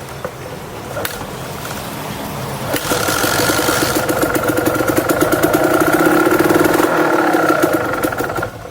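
Motorcycle engine with its stock exhaust, running low at first, then louder and held at higher revs with an even pulsing for about five seconds before dropping back near the end.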